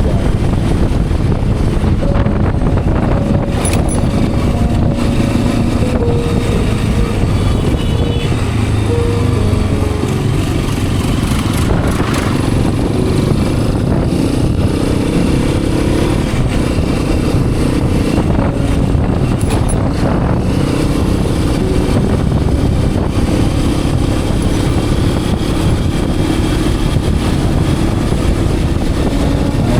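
Hero Xpulse 210 motorcycle's single-cylinder engine running under way, heard from the rider's seat, its note falling and rising as the throttle and speed change.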